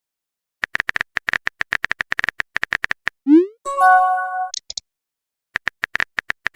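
Chat-app sound effects: a fast run of keyboard typing clicks, then a short rising whoosh and a brief chime, the sound of a message being sent. The typing clicks start again near the end.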